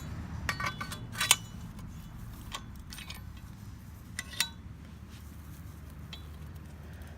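A few light metallic clinks and taps, bunched in the first second and a half with the sharpest about a second in, then a few more near the middle. They come from work on the old machete's handle as it is taken apart, and sit over a steady low hum.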